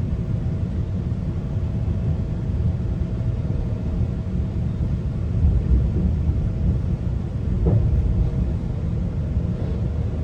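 GO Transit commuter train running between stations: a steady low rumble with a faint constant hum, and a short knock about eight seconds in.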